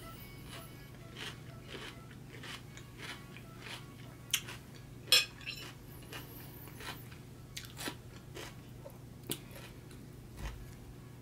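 Close-up crunching and chewing of raw Persian cucumber, a series of short crisp crunches with the sharpest about four and five seconds in. Near the end a fork and steak knife scrape and click on a ceramic plate as steak is cut.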